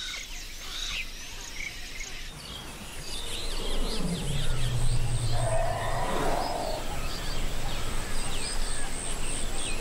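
Wild birds chirping and calling over a forest-edge background, with a low drawn-out sound that drops in pitch and holds from about four to seven seconds in. Near the end an insect pulses rapidly in a high buzz.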